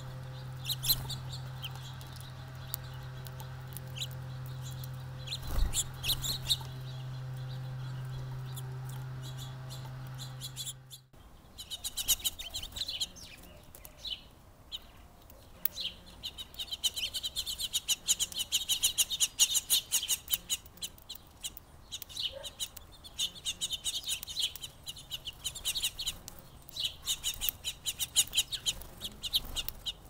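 Birds chirping over a steady low hum for the first ten seconds or so. Then the hum cuts off and a dense, rapid chatter of bird chirps and clucks fills the rest.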